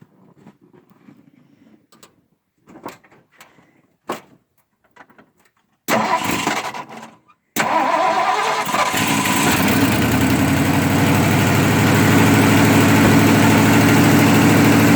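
Propane-fuelled truck engine, restarted after a thermostat repair: the starter cranks for about a second and a half, then the engine runs steadily at idle.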